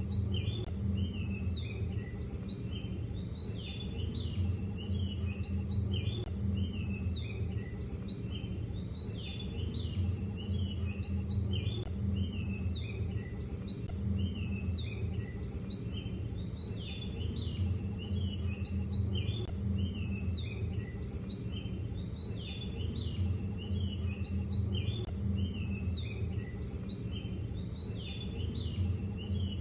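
Songbirds chirping steadily, many short chirps overlapping, over a steady low rumble.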